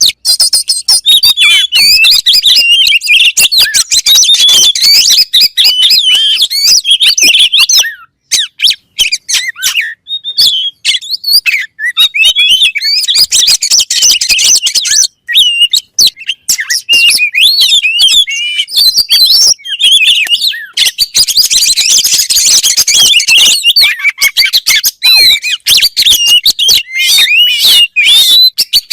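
Oriental magpie-robin (kacer) singing loudly: a fast, varied run of clear whistles mixed with harsh chattering notes, nearly continuous with short breaks about eight and fifteen seconds in. Song of this kind is played to captive magpie-robins to prompt them into singing.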